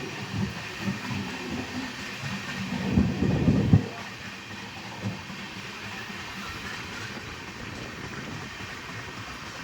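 Indian Railways train running on the track: a low rumble with uneven knocks, loudest for about a second just after three seconds in, then settling into a steadier noise.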